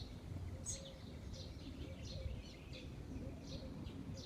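Small birds chirping repeatedly, short high chirps about twice a second, over a steady low background rumble.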